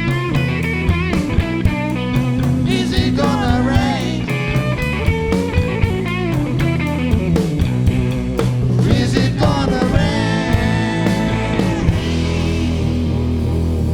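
Live rock band playing an instrumental passage with electric guitar lines over bass and drums. The drum hits stop about twelve seconds in, leaving a held low bass note.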